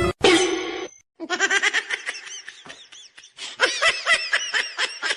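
High-pitched laughing in quick repeated bursts, rising and falling in pitch, after a brief loud sound that cuts off about a second in.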